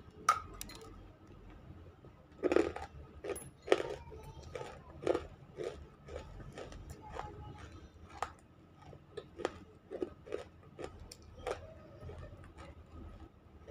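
Biting and chewing a lump of half-roasted edible clay (nakumatt) close to the mic. A string of sharp crunches, loudest in the first five seconds, then softer, scattered crunching clicks as it is chewed.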